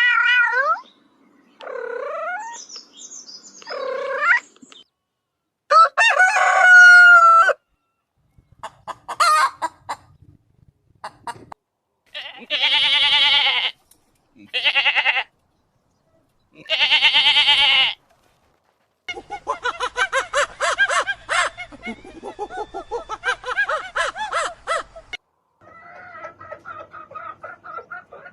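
A rooster crowing three times, each crow a long loud call, followed by a hen clucking in a rapid run of short calls. Shorter pitched animal calls come before the crows.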